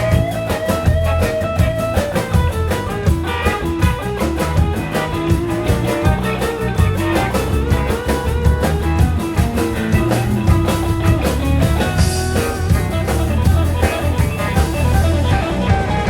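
Band music with no singing: guitar over bass and drum kit, keeping a steady beat.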